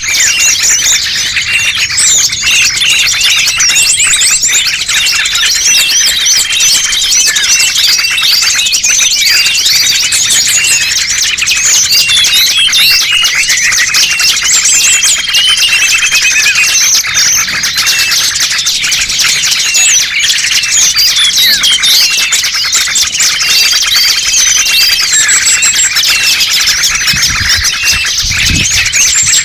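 A loud, dense chorus of many small birds chirping and trilling over one another without a break, a lure recording played to attract small birds. A few low thumps come near the end.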